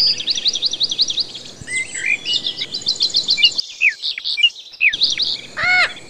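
Bird calls: a fast series of sharp high chirps, then twittering with quick downward whistles, and a brief squawk near the end.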